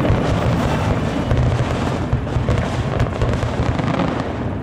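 A fireworks display bursting in a dense, rapid barrage: overlapping booms and crackles over a continuous low rumble.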